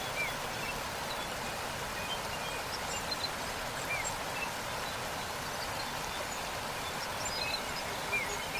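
Steady rush of a waterfall, with small birds giving short high chirps here and there over it.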